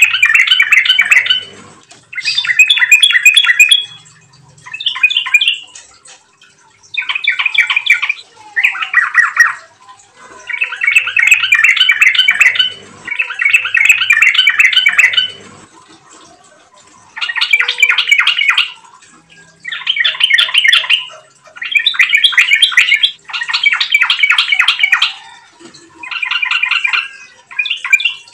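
Yellow-vented bulbul (trucukan) singing loudly in bubbling phrases of rapid notes, each one to two seconds long and repeated after short pauses. This is the continuous 'gacor' song used as a lure recording to start other trucukan singing.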